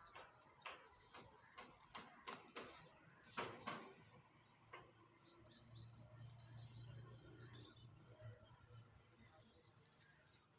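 A bird calling: a few short sharp chirps, then about halfway through a rapid trill of short rising high notes lasting a couple of seconds, with a faint low hum under it.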